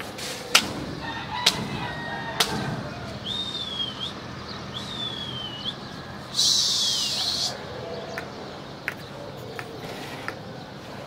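Birds calling outdoors: a longer call about a second in, then two short chirps that dip and rise. Several sharp clicks and a brief burst of hiss around the middle are heard with them.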